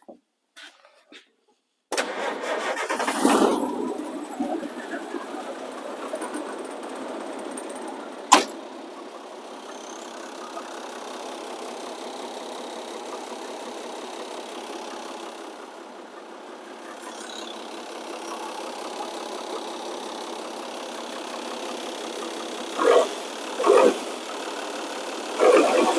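The 1981 International tow truck's DT466 inline-six diesel firing up about two seconds in on its first start after retiming the new injection pump, loud as it catches, then settling into a steady idle. A sharp click comes a few seconds after it starts, and a few short louder bursts come near the end.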